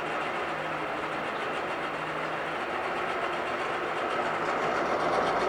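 1997 Mercury 40 hp four-cylinder two-stroke outboard idling steadily while it warms up after a start, growing slightly louder toward the end.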